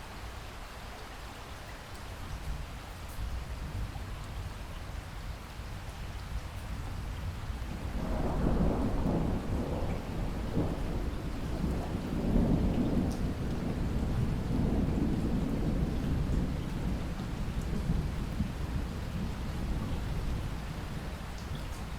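Steady rain with a long roll of thunder that swells in about eight seconds in, rumbles on for over ten seconds and then fades back into the rain.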